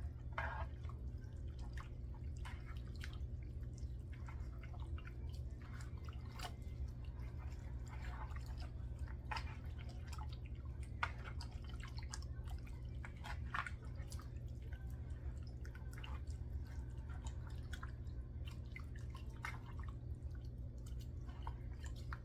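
Raw chicken pieces being mixed and turned in a soy-sauce marinade: irregular wet squelches and clicks, over a steady low hum.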